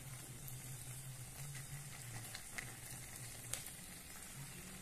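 Egg batter sizzling in hot oil in the holes of an aluminium sostel pan, with a steady low hum underneath. A few light clicks come from a skewer stirring against the metal, the sharpest about three and a half seconds in.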